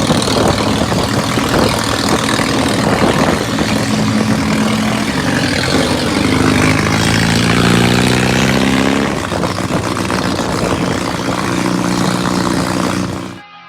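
Car engine running loud under dense road and wind noise. Its pitch climbs for a few seconds as it revs, then drops back. The sound cuts off suddenly near the end.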